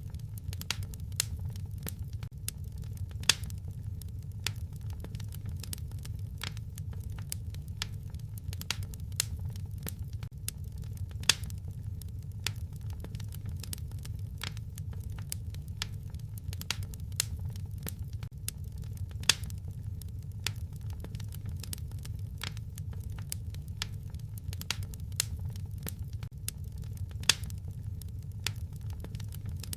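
Wood fire crackling in a fireplace: irregular small snaps and pops over a steady low rumble, with a louder pop every several seconds.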